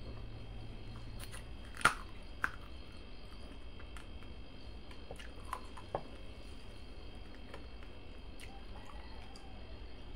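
A person chewing a mouthful of rice and curry eaten by hand, with a few sharp clicks and smacks, the loudest about two seconds in.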